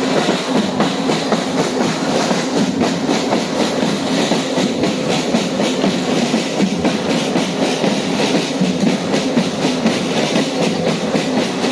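Train running along the track: a steady rumble with many short clicks of the wheels over the rails.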